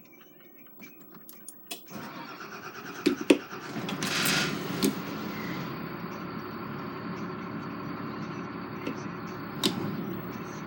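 A vehicle's engine being started: a few clicks, then about two seconds in it starts up, runs louder for a moment about four seconds in, and settles into a steady idle with a few sharp clicks over it.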